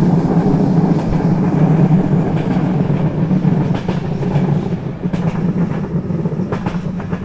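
BDZ passenger train running at speed, heard from on board: a steady low rumble of wheels on rails, with a few sharp wheel clicks over the rails in the second half.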